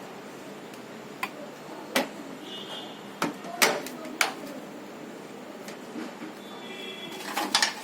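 Scattered sharp knocks and clinks of hand work on a washing machine repair, single strikes at first and a quick cluster near the end, with two brief high squeaks.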